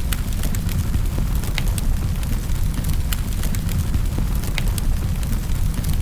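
Wood fire crackling in a fireplace: irregular sharp snaps and pops, a few a second, over a steady low rumble of the flames.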